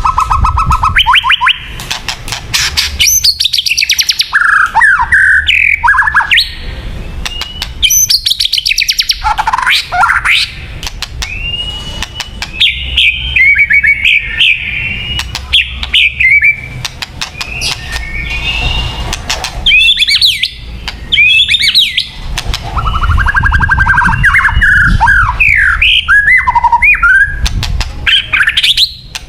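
White-rumped shama (murai batu) singing a varied, loud song: sweeping whistled notes, rapid trills and harsh chattering phrases, one after another with short pauses between.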